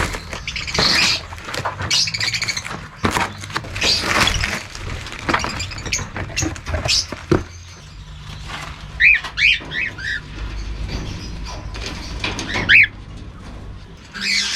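Small pet parrots in cages chirping and calling, with a run of short, sharply rising chirps in the second half.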